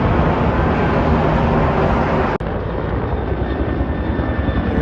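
Helicopter flying overhead: steady rotor and engine noise with a pulsing low beat. The sound breaks off for an instant about halfway through, then carries on.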